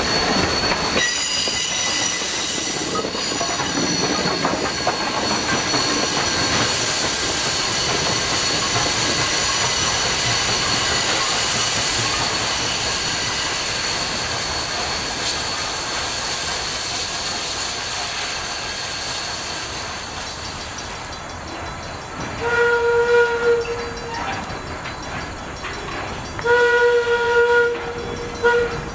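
Passenger train rolling past, steel wheels clicking over the rail joints, the rumble slowly fading. Near the end, two single-note locomotive whistle blasts of about a second each as a locomotive approaches.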